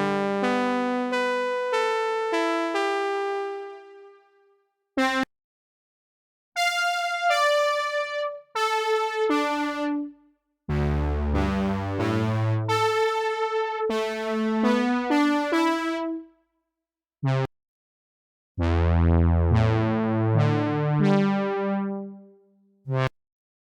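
Software synthesizer presets from the reFX Nexus 'Sound Of The 70s' expansion being auditioned: several short keyboard phrases of pitched notes with a bass line, each a few seconds long and cut off by a silence of a second or two, with brief single stabs in between.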